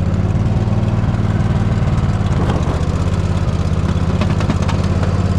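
Poulan riding lawn mower engine running steadily at an even speed.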